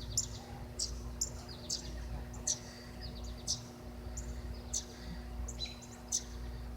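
Northern cardinals giving sharp, high chip calls, about one or two a second and irregular, some in quick short runs: parent birds calling as they come down to their fledgling. A faint steady hum runs underneath.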